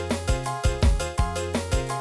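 Arranger keyboard (organ) music with a steady, quick beat: drum hits about three times a second under held melody notes and chords.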